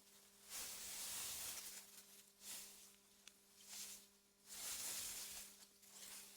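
Soft wind gusting through meadow grass, swelling and dying away in waves, with a faint steady hum underneath and one small tick a little after three seconds in.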